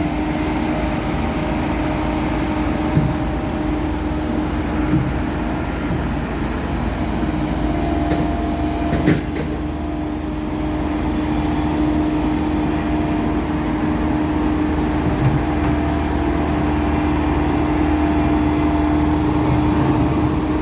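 Diesel engine of a Bomag vibratory roller running steadily at constant pitch, with a single sharp knock about nine seconds in and the engine growing slightly louder near the end.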